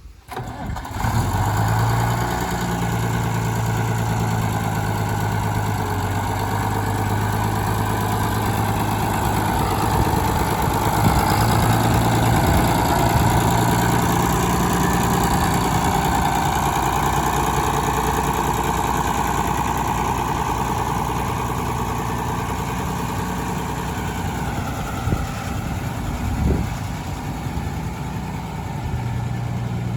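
1981 International F-786 tractor's six-cylinder diesel engine coming on about a second in and then idling steadily. There is a brief knock about three-quarters of the way through.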